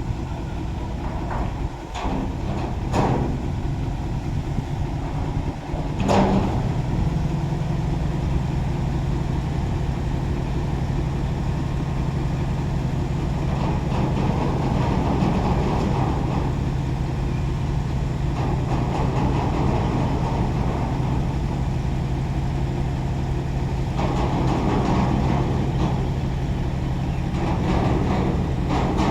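Container truck's diesel engine running steadily at a low, even hum, with three sharp knocks in the first six seconds.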